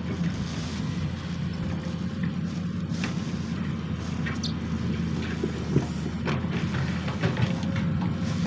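Sany SY215C excavator's diesel engine running steadily under work, with a few short knocks or scrapes from the machine at work.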